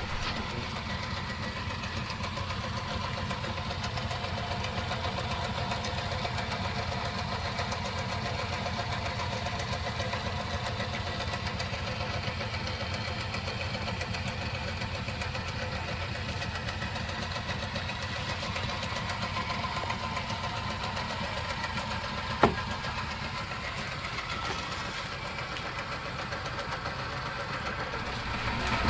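Myford Super 7B lathe running with its quick-change gearbox and lead screw engaged, a steady even whir of turning gears and spindle as the carriage feeds under power. A single sharp click about 22 seconds in.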